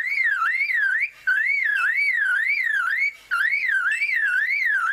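Superb lyrebird mimicking a car alarm: a wavering whistle that sweeps up and down about three times a second, in three stretches broken by short gaps.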